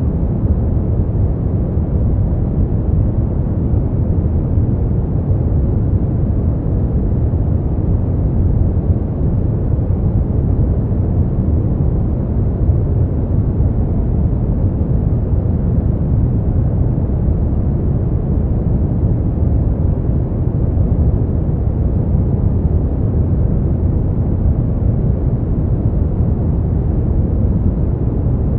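Steady synthetic brown noise: an even, deep rumble with most of its energy low and the highs rolled off, unchanging throughout.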